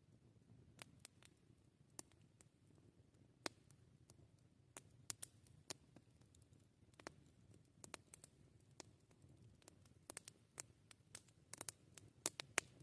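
Campfire crackling: irregular sharp pops and snaps of burning wood, several a second at times, over a faint low background.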